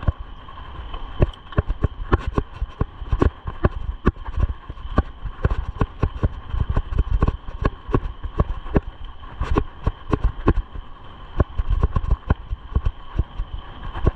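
Mountain bike rattling and clattering over bumpy ground, with irregular sharp knocks several times a second over a steady high hum.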